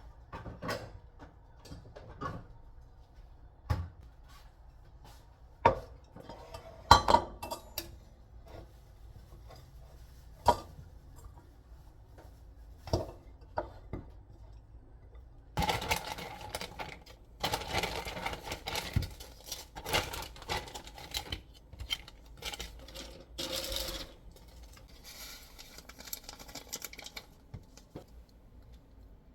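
Dishes and cutlery being handled: scattered sharp clinks and knocks, then about halfway through a longer stretch of busier clattering.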